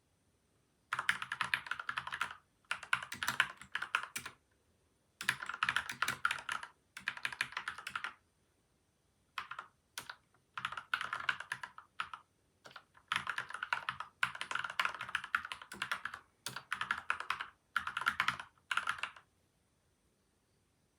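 Typing on a PCL87 mechanical keyboard with lubed linear switches, its case modded with tape and foam layers. The typing comes in runs of one to two seconds of rapid keystrokes with short pauses between them, and stops shortly before the end.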